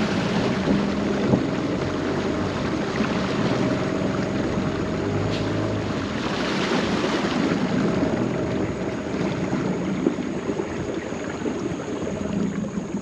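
A boat's motor running at a steady speed with a constant hum, over the rush of water and wind.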